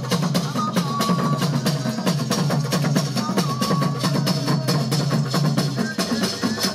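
Fast, dense drumming with a deep drum throughout. A short, high held tone sounds over it a couple of times.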